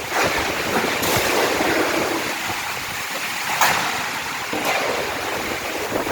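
Storm of heavy rain and strong wind, a steady rushing with a few sudden louder gusts.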